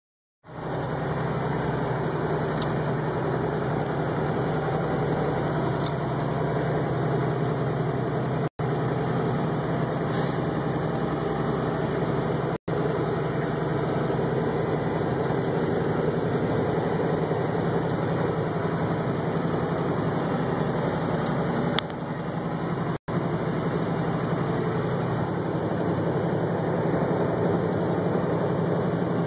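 Steady engine and road noise of a moving vehicle, a constant low hum under an even rush. The sound cuts out for an instant three times.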